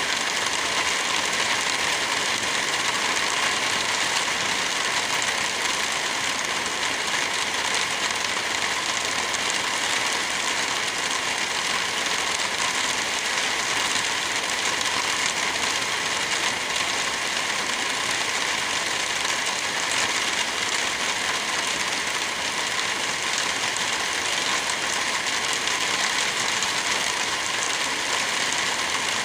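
Steady rain, an even hiss that neither builds nor breaks.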